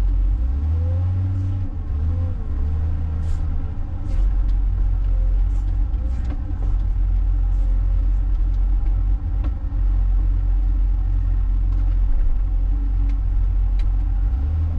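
John Deere 544K wheel loader's diesel engine running with a heavy low rumble, its pitch wavering as the revs change in the first few seconds, with a few light knocks along the way.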